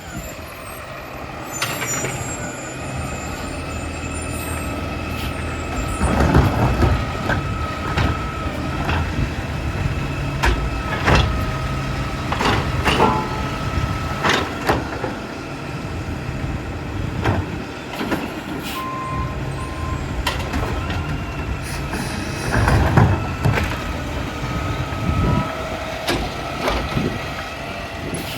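New Way Sidewinder automated side-loader recycling truck at work: the diesel engine runs with a steady hydraulic whine over it, and there is a series of sharp clanks and knocks.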